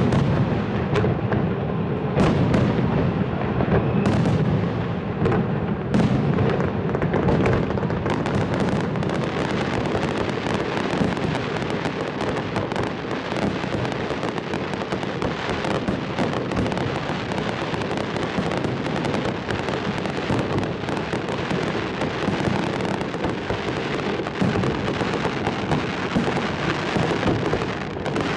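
Aerial fireworks display: a continuous barrage of shell bursts, with heavy booms in the first several seconds giving way to a thick, unbroken crackle from about eight seconds in.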